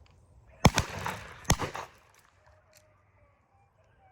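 Two shotgun shots about a second apart, each ringing out briefly after the blast.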